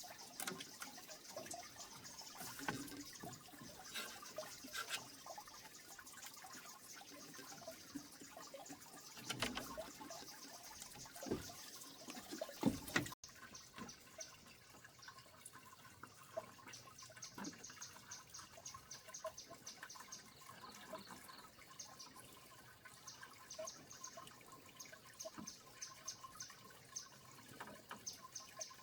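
Water trickling and dripping, with scattered small clicks and knocks of handling; the sound changes abruptly at a cut about 13 seconds in.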